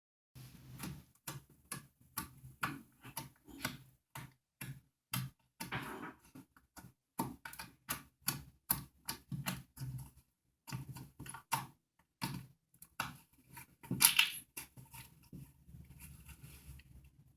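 Green homemade slime being worked by hand, giving sticky clicks and pops at an irregular pace of a few a second, with the loudest pop about fourteen seconds in.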